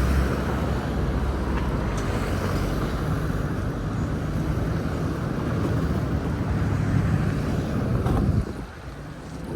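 Wind buffeting the microphone: a steady low rumbling noise that drops away abruptly about eight and a half seconds in.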